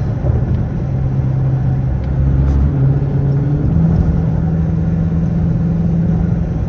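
Straight-piped Dodge Charger R/T's 5.7 HEMI V8 exhaust droning while the car cruises, its pitch stepping up slightly a little past halfway as the revs rise.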